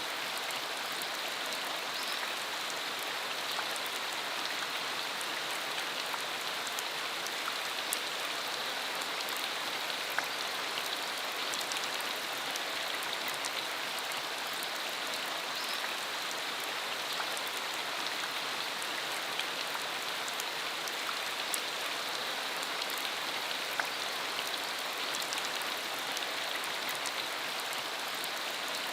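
Steady rain shower: an even hiss of falling rain with scattered sharper ticks of single drops.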